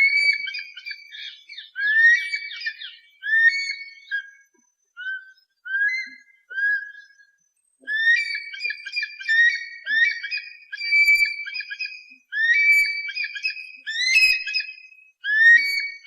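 Eagle calling: a long series of short, whistled cries, each rising and then holding, repeated in bursts with brief pauses. The cries are softer and shorter for a few seconds about a third of the way in.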